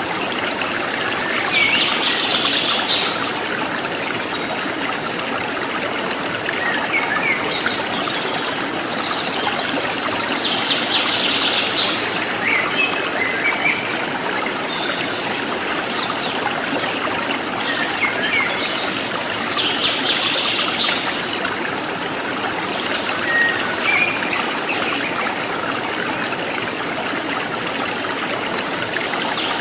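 Steady rush of a forest stream trickling over rocks, with wild birds calling over it. A louder burst of bird calls, about a second long, comes roughly every nine seconds, with short chirps in between.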